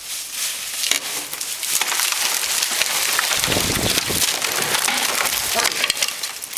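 A felled tree coming down: wood cracking and splintering and branches crashing, with a heavy thud about three and a half seconds in as the trunk hits the ground.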